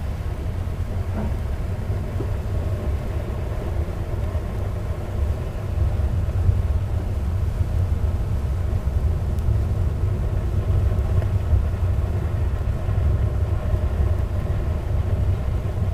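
Wood stove fire burning with its door cracked open: a steady, flickering low rumble of flames as a batch of bad electrolytic capacitors burns in the coals, with one faint snap about a second in.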